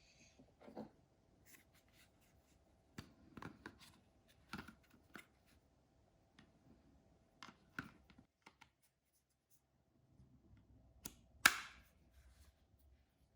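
Scattered light clicks, taps and knocks of objects being handled, with one sharper knock near the end, over a faint steady hum.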